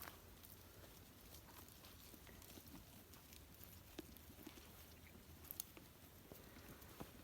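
Faint, scattered clicks and crackles of a goat herd browsing and stepping through forest undergrowth, over a low steady background.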